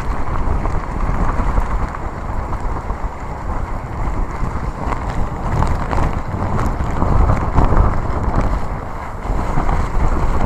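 Typhoon-force wind buffeting the phone's microphone: a heavy, low rumbling roar that surges and eases in gusts.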